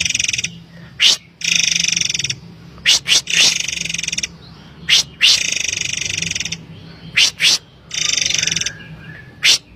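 Murai air (forktail) calling: a loud series of harsh, rattling buzzes, each about a second long, alternating with short, sharp high notes that come singly or in pairs. This is the bird's excited call, used as a lure (pancingan) recording.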